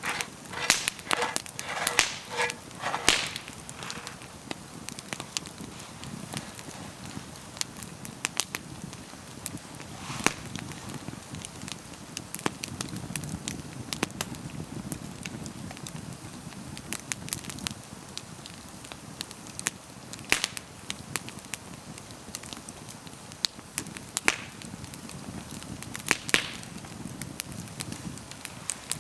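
Campfire crackling: wood burning with irregular sharp pops and snaps over a soft low rush of flame. A quick run of louder knocks comes in the first three seconds.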